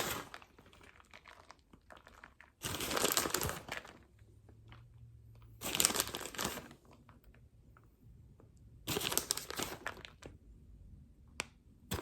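Plastic packaging of fat-free cheddar cheese crinkling in three separate bursts of about a second each, as the cheese is handled out of its package.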